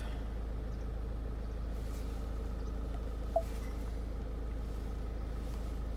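Ford Mondeo TDCi diesel engine idling, a steady low hum heard from inside the cabin. A single short electronic beep sounds about halfway through.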